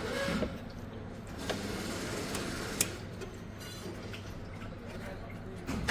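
A few light, sharp clicks and taps over a steady low hum.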